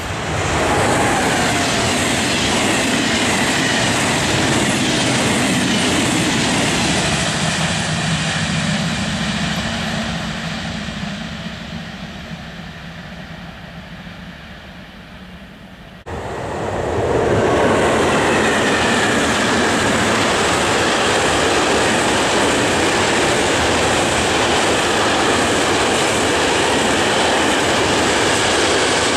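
A passing train's running noise fading away over several seconds. About sixteen seconds in it breaks off abruptly, and a long freight train of tank wagons runs past close by, its wheels steady and loud on the rails.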